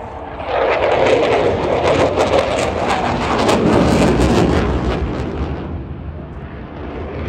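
Eurofighter Typhoon jet flying past: its twin engines give a loud, crackling rumble that swells about half a second in and fades after about five seconds.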